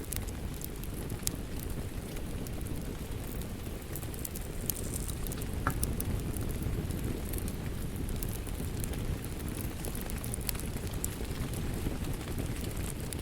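Wood fire crackling, with irregular sharp pops and snaps scattered over a steady low rush of rain.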